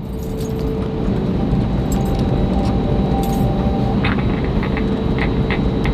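Steady cabin noise inside an Airbus A321neo taxiing after landing: the engines' even hum with a faint steady whine, and light rattles from the cabin.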